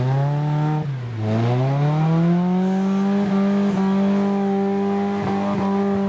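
Off-road 4x4 competition vehicle's engine revving hard: the revs climb, drop sharply about a second in, then climb again and hold high and steady, with a few light knocks partway through.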